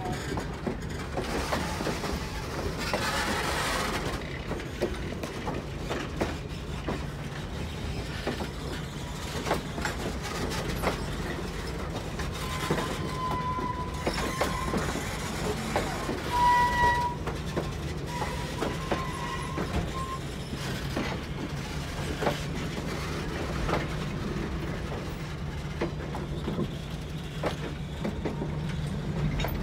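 Passenger train moving along the track: a steady low rumble with wheels clicking over rail joints. There is a short hiss a few seconds in, and brief high wheel squeals come and go around the middle.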